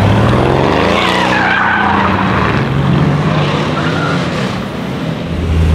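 A modified Mercedes-AMG C63's twin-turbo V8 accelerating hard, the engine note climbing. The tyres squeal as it pulls away, from about a second in and again briefly near the end.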